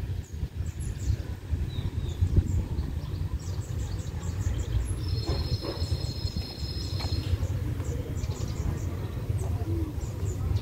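Small birds chirping repeatedly over a steady low rumble, with a high steady tone lasting about two seconds midway.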